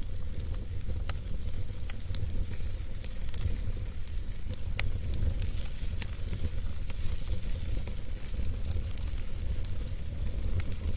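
Wood fire burning in a fireplace: a low steady rumble and hiss with frequent sharp crackles and pops scattered throughout.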